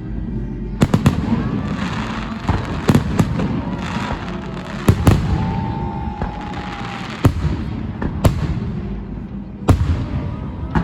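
Festive fireworks salute: aerial shells bursting in a string of sharp bangs, roughly one every second or two, over a steady rumble of the display.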